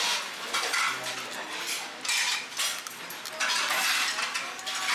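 Cutlery and dishes clinking and clattering at a meal table, in a run of short, sharp noises.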